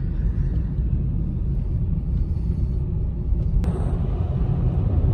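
Steady low rumble of a car's engine and tyres heard from inside the cabin, driving slowly on a snow-covered road. About three and a half seconds in, a sharp click, then a louder steady hiss sets in.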